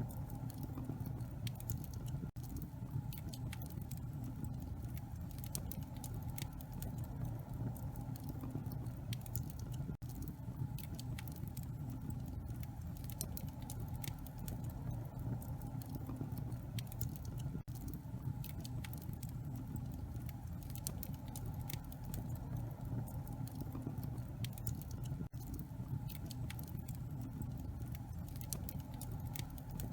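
Wood fire crackling in a fireplace: many small, irregular sharp pops and snaps over a steady low rumble of the flames.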